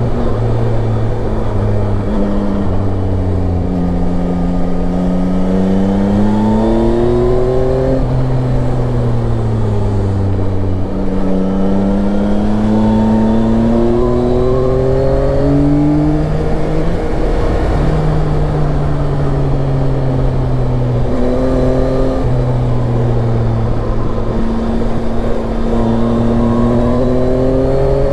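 Yamaha Tracer 9 motorcycle's inline-three engine under way. Its note climbs in pitch, drops sharply at each gear change and climbs again several times, with spells of easing off, over a steady rush of wind and road noise.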